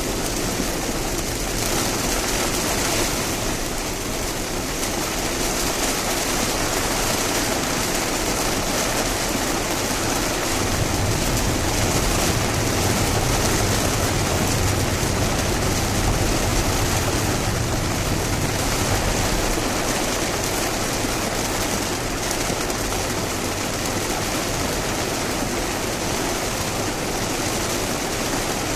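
Heavy rain and tyre spray on a wet expressway as a Lexus RX drives through a typhoon downpour, a steady dense hiss, with a low road rumble swelling between about ten and eighteen seconds in.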